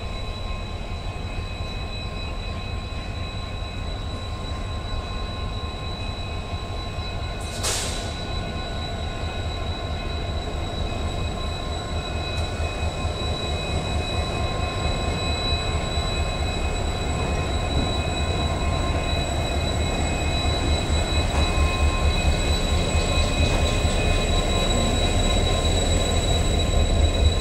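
A diesel-hauled freight train of covered wagons running slowly through the station, its low rumble building as it draws closer, with a steady high-pitched whine over it. A short sharp noise comes about eight seconds in.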